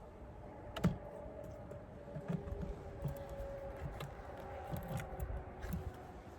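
Wooden hive frames knocking and clicking as a frame is worked loose and lifted from a Layens horizontal beehive, with a faint steady buzz of honeybees underneath.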